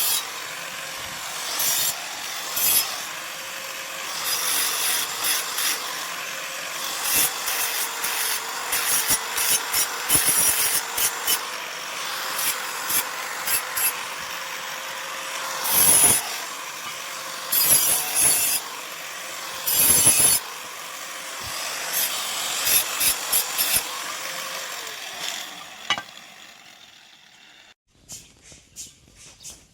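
Electric grinder working a steel plate: a steady motor tone under a harsh scraping noise with frequent sharp catches. About 26 seconds in the tool is switched off and its tone sags as it winds down.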